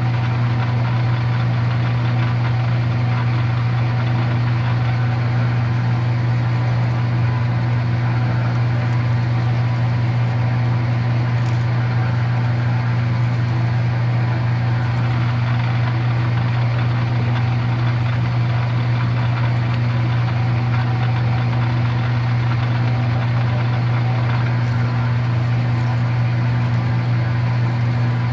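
Electric drill press running steadily with a strong low motor hum, drilling a hole through metal.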